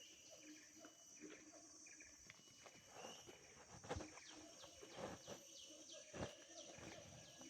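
Faint outdoor ambience: a steady high insect hum, and from about halfway in a bird giving a quick series of short, downward-sliding chirps, about three a second. A couple of soft thumps are also heard.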